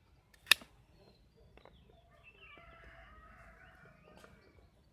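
One sharp click about half a second in, then faint, chattering bird calls for a few seconds.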